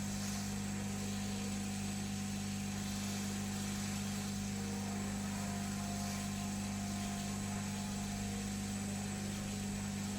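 Hot air rework gun blowing steadily, a constant low hum with an even airy hiss, heating the solder under a circuit-board chip.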